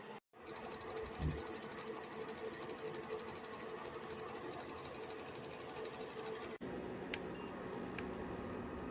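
Small electric motor running steadily with a hum. There is a thump about a second in. Two-thirds of the way through it breaks off suddenly and resumes at a lower hum, with two sharp clicks near the end.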